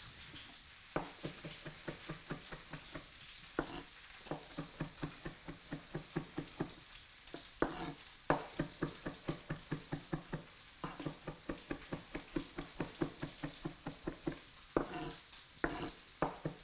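Egg-washed chicken breast frying in olive oil in a pan: a steady sizzle with frequent short crackling pops, several a second.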